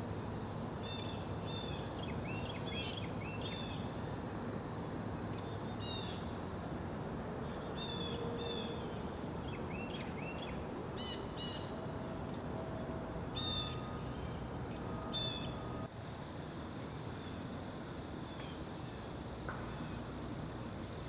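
Small birds giving short, quick chirping calls in little clusters every second or two, over a steady high-pitched trilling of crickets or other insects. About sixteen seconds in, the insect trill changes abruptly to a different, stronger high band.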